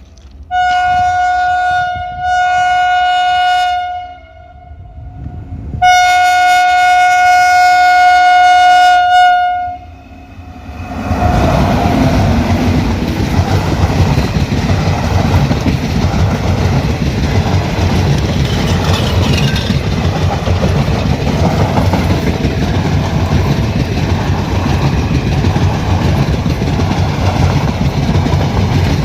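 Train horn sounds twice in short blasts and then in one longer blast, a chord of several tones. About eleven seconds in, the train reaches the spot and passes with a steady rumble of wheels on the rails.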